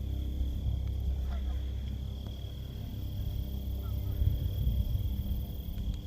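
Low rumble of wind and the rolling bicycle on the microphone, under a steady high insect trill, with a few faint, distant honks from Canada geese.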